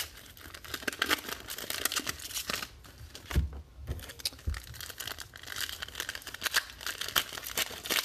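Plastic wrappers crinkling and tearing as trading card packs are opened and handled, in a steady run of irregular crackles, with a couple of dull thumps about three and a half and four and a half seconds in.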